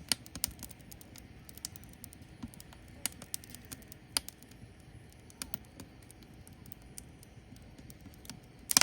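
Firewood burning, crackling with irregular sharp pops over a low hiss, with a quick burst of louder pops near the end.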